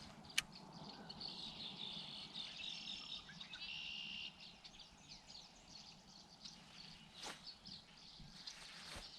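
Songbirds singing outdoors, with trilled, chirping phrases for the first few seconds and more calls later. A single sharp click about half a second in is the loudest sound, and two softer knocks follow near the end.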